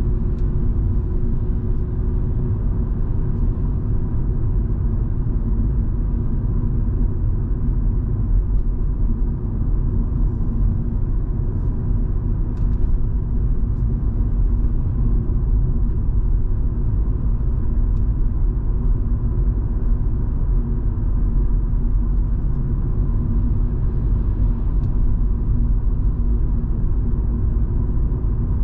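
Volvo V70 2.5T's turbocharged five-cylinder engine and tyre noise during a steady drive, a constant low rumble with an even engine hum.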